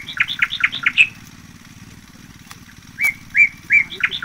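A songbird singing a repeated phrase: a few clear whistled notes followed by a quick run of falling notes, heard twice with a pause of about two seconds between.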